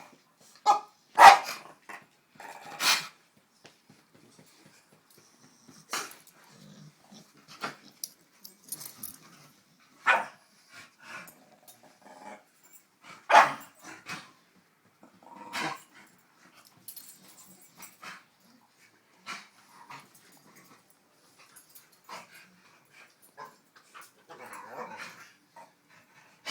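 Staffordshire bull terrier play barking and growling: short, sharp barks and growls in irregular bursts with quiet gaps between, the loudest about a second in and around thirteen seconds.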